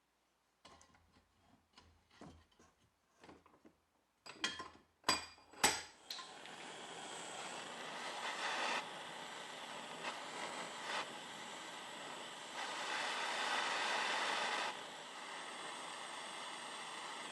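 A few light knocks, then several sharper clacks of things being handled, followed by a continuous rough rubbing, scrubbing noise of a tool working that swells and eases, loudest for a couple of seconds past the middle.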